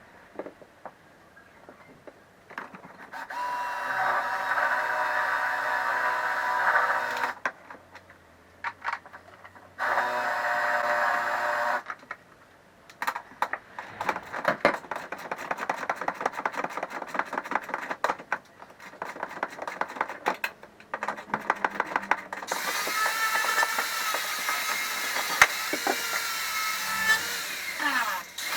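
A power drill running in bursts of a few seconds, with a stretch of rapid clicking and clattering from hand-tool work between them.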